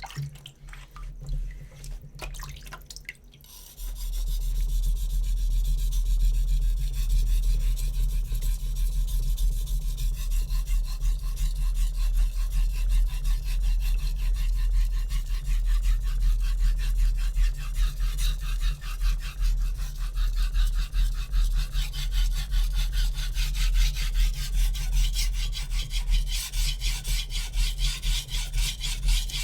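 A hard HAP40 steel chef knife blade rubbing back and forth on a wet Naniwa Super Stone whetstone in rapid, even strokes, starting about four seconds in after a few small drips and taps. This is the sharpening of the knife's second side.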